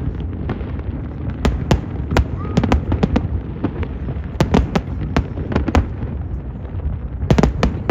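Fireworks display: a rapid, irregular run of sharp aerial shell bursts over a continuous low rumble of booms, with a quick cluster of cracks near the end.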